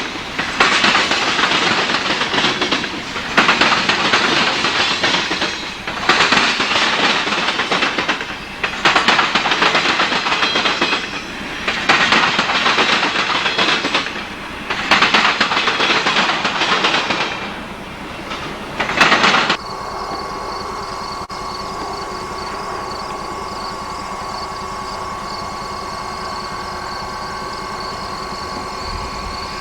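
Freight train cars rolling past close by, their wheels clattering over the rail joints in a swell-and-dip rhythm about every two and a half seconds. About two-thirds of the way in it cuts off suddenly to a steady, quieter hum with a constant high tone.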